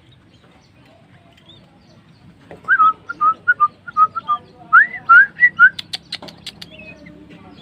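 A run of about a dozen short, loud whistled notes, each sliding up or down, starting about two and a half seconds in, then a quick string of sharp clicks.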